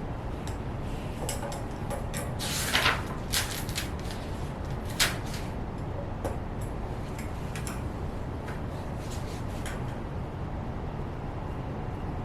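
Steady low background hum, with a few short taps and rustles from someone working at a desk, loudest about two and a half and five seconds in.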